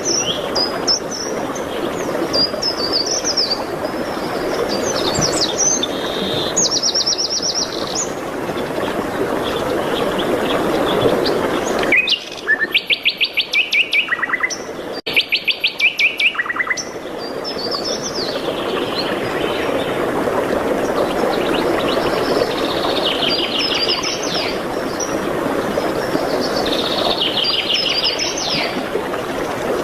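Songbirds singing: short warbling phrases and chirps throughout, with fast trills of rapidly repeated notes about halfway through. Under them runs a steady rushing noise that cuts out for a few seconds during the trills and then returns.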